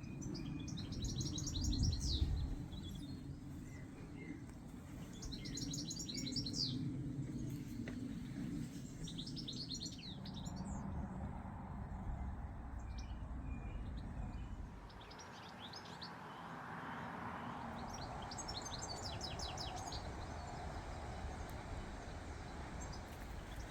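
A songbird singing short, rapid trilled phrases several times, over a steady low background rumble.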